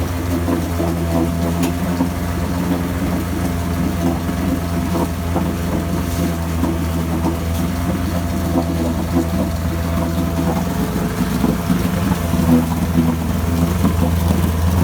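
1965 Evinrude 9.5 hp two-cylinder two-stroke outboard running steadily in neutral shortly after a cold start, getting a little louder near the end.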